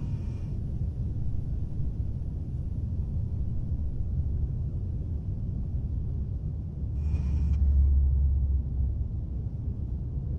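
Deep, steady low rumble that swells louder about seven seconds in, with a brief faint high shimmer at the start and again as it swells.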